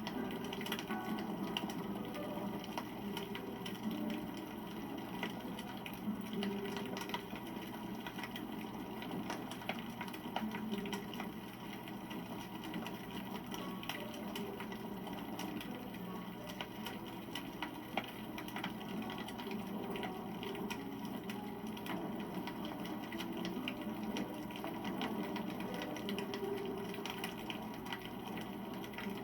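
Wood campfire burning, with steady fine crackling and small pops. One sharper pop comes about 18 seconds in.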